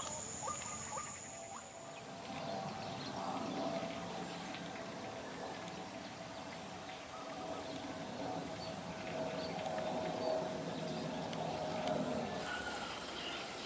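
Night insects, crickets among them, trilling steadily in a continuous high pulsing chorus that grows louder near the end.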